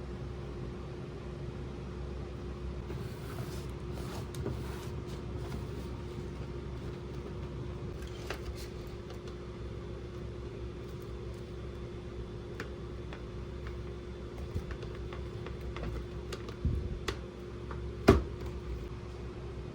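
Light plastic clicks and taps from small toy pieces being handled, over a steady background hum, with a small knock and then a sharper, louder click near the end.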